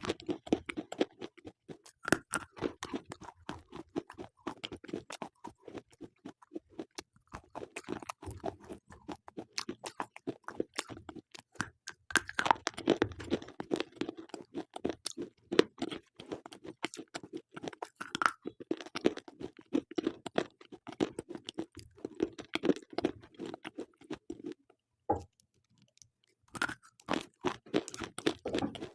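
Slate pencils being bitten and chewed: a dense, rapid crunching, with a brief pause about 25 seconds in.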